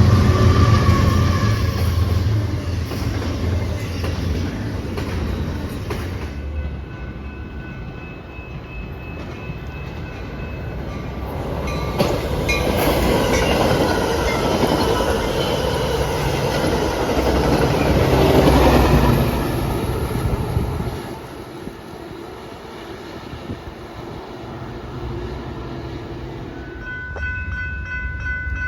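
A train passing on the tracks, its low rumble fading over the first few seconds, then a second pass of rolling wheel noise that builds and cuts off abruptly about two-thirds of the way through. Steady high tones start near the end.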